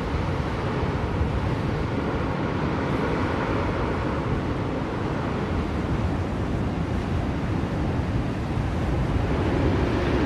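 Blizzard wind blowing steadily, a dense low rushing noise that swells slightly near the end.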